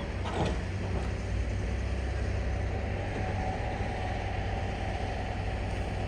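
Diesel engine of heavy earthmoving machinery running steadily with a deep drone, and a faint higher whine coming in about halfway through.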